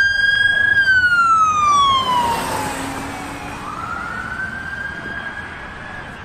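Emergency vehicle siren in a slow wail: held high, sliding down in pitch over about two seconds, then rising again and holding, growing fainter toward the end.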